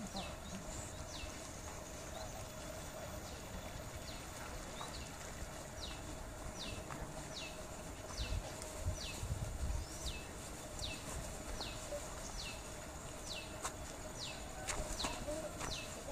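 A bird calling over and over in short high notes that fall in pitch, about one or two a second, over a faint steady hum. A low rumble comes in about halfway through.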